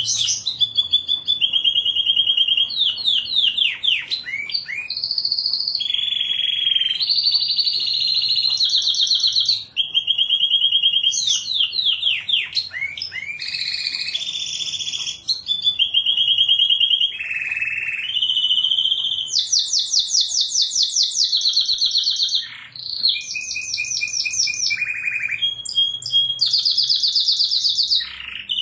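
Domestic canary singing an unbroken song of rapid trills and rolls. Each run of fast repeated notes lasts a second or two before the bird switches to a new one, higher or lower, with now and then a quick falling sweep.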